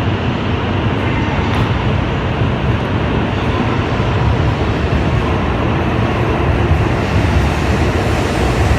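Coupled E5 and E6 series Shinkansen train moving through the station, a loud, steady rumble with no breaks.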